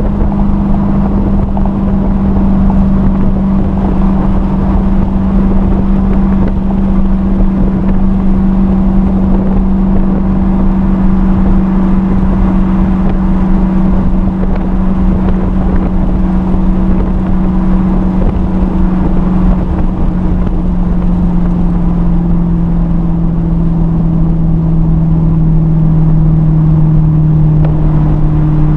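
Dodge Challenger SRT Hellcat's supercharged 6.2-litre V8, heard from inside the cabin, running at a steady engine note that slowly drops in pitch over the last third, with road and wind noise underneath.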